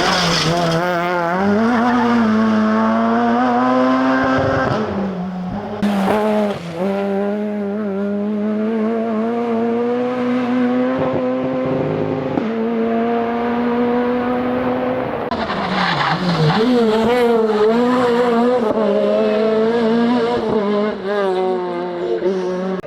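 Renault Clio R3 rally car's naturally aspirated four-cylinder engine driven hard on a rally stage: revs climb and drop again and again through gear changes and lifts for corners, in a few separate passes cut together.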